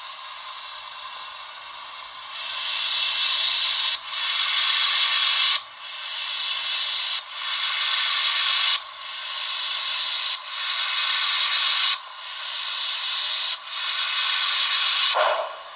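Paragon4 sound decoder in an HO-scale NYC Hudson steam locomotive model playing slow steam exhaust chuffs as the engine starts off at its lowest speed step. A steady hiss comes first, then long hissing chuffs start about two seconds in and repeat about every second and a half.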